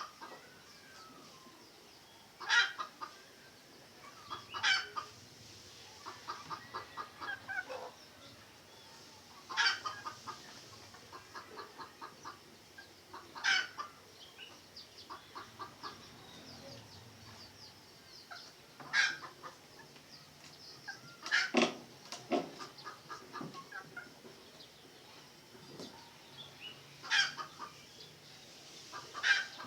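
Red junglefowl clucking in runs of rapid pulses, broken every few seconds by a sharp, short, louder sound.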